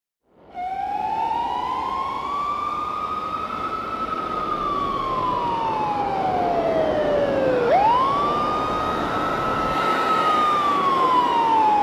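Emergency siren wailing: one slow rising and falling tone that starts about half a second in, sinks low about two-thirds of the way through, then swoops quickly back up and slowly falls again, over a steady hiss.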